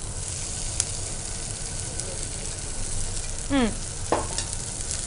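Capsicum frying in oil in a non-stick pan with a steady sizzle as cooked basmati rice is tipped in, with one sharp click a little under a second in.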